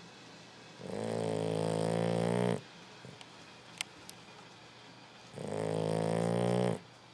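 A 13-week-old Boxer puppy snoring in his sleep: two long, pitched snores a few seconds apart, with a couple of faint clicks between them.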